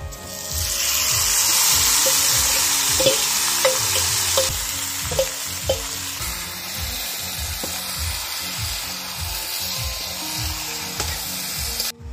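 Mutton pieces and potatoes tipped into hot oil and fried onions in a metal kadai, bursting into a loud sizzle about half a second in that eases slightly but keeps on frying. A metal spatula clinks against the bowl and pan several times as the bowl is scraped out.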